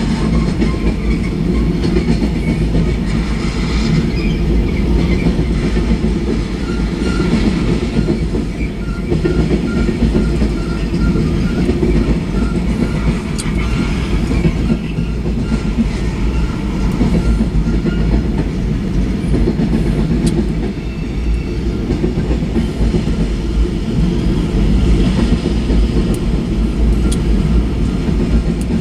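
Freight cars of a mixed manifest train (tank cars, covered hoppers and boxcars) rolling past at steady speed: a continuous heavy rumble of steel wheels on rail with clickety-clack over the rail joints. A faint thin high tone comes and goes about a quarter of the way through.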